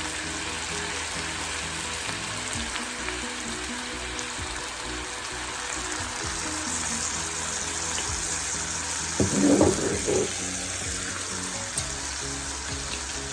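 Chicken pieces sizzling steadily in a pan in soy sauce, with background music playing. There is a brief louder rough burst about nine seconds in.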